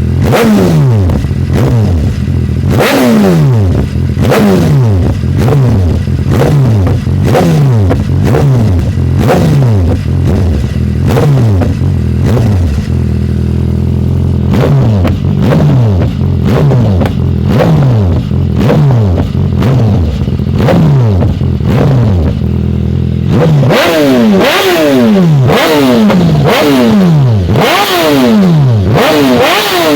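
BMW S1000RR inline-four running through an Arrow Evo 2 full exhaust, its throttle blipped over and over so that each rev shoots up and falls back. The engine settles to a steadier run in the middle, then takes quicker, closer-spaced blips near the end.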